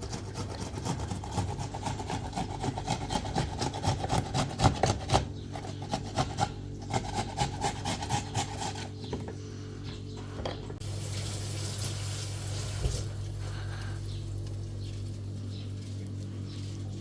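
Quick rhythmic scraping strokes, several a second, that stop about nine seconds in, followed by a short steady hiss.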